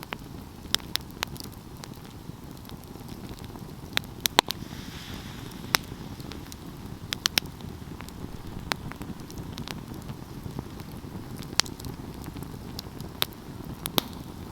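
Wood fire burning, with a steady low rush of flames and irregular sharp crackles and pops, a quick cluster of them about four seconds in.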